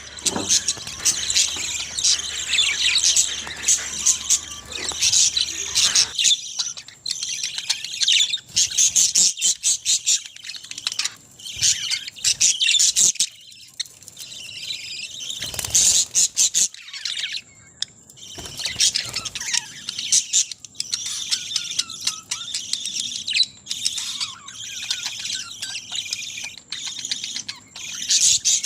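A flock of budgerigars chattering: many high chirps and warbles overlapping without pause, with occasional squawks.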